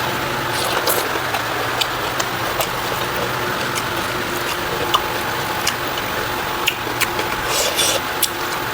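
Close-miked eating sounds: irregular wet clicks and crunches of chewing on pork, bamboo shoot and rice, over a steady background hum.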